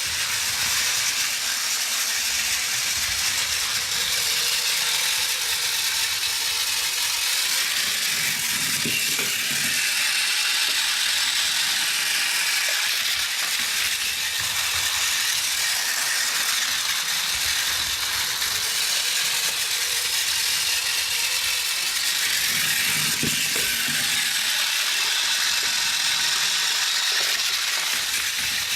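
Plarail E1 Series Max Shinkansen toy train running, its battery motor and plastic gearbox whirring steadily with a continuous gear rattle.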